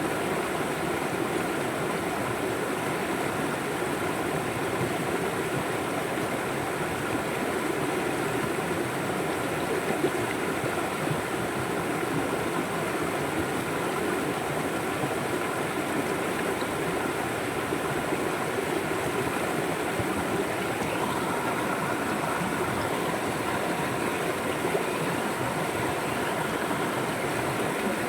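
River water flowing steadily, an even rushing with no pauses or changes.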